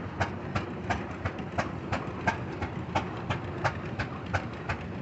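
Antique show engine running steadily, with a sharp, even click about three times a second over a low rumble.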